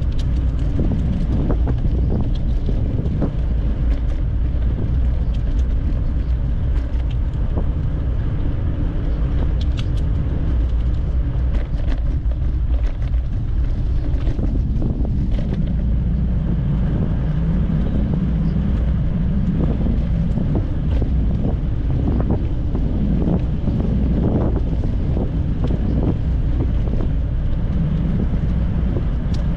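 Wind buffeting the microphone of a moving bicycle: a steady low rumble with scattered small clicks.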